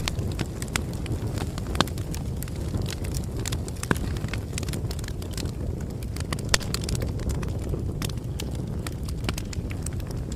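Bonfire burning, with a steady low rumble and irregular sharp crackles and pops; a few pops are louder.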